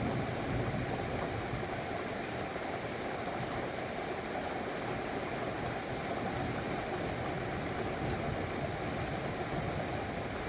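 Steady rain, an even unbroken hiss with faint scattered ticks of drops.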